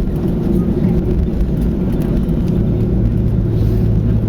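Steady low rumble inside the cabin of a Ryanair Boeing 737 taxiing after landing, made up of engine and air-conditioning noise, with a steady low hum coming in about three seconds in.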